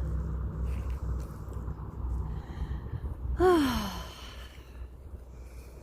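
A person's long drawn-out sigh or "ohh", falling in pitch, about three and a half seconds in, over a low steady background rumble.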